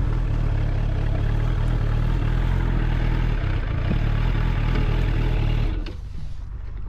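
Suzuki GSF 600 Bandit's air/oil-cooled inline-four engine running steadily, then cutting off about six seconds in, leaving a few faint clicks.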